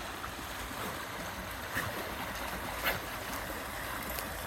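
Fast-moving creek rushing steadily, with two brief sharp sounds about a second apart partway through.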